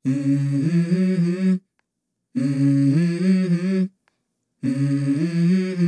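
Wordless humming or singing of a song's intro: three short melodic phrases, each about a second and a half long, with the pitch stepping between notes and clean silent gaps between the phrases.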